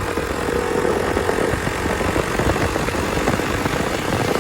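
Hero Xpulse 200's single-cylinder engine running steadily through an aftermarket exhaust.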